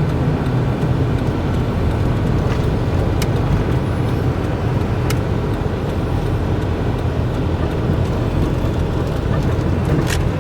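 Steady road and engine rumble from inside a moving car, with a few light clicks.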